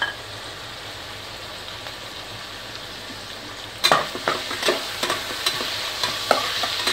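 Chopped onions, curry leaves and ginger-garlic paste sizzling steadily in oil in an aluminium pressure cooker. From about four seconds in, a spoon stirs them, with sharp clicks and scrapes of the spoon against the metal pot.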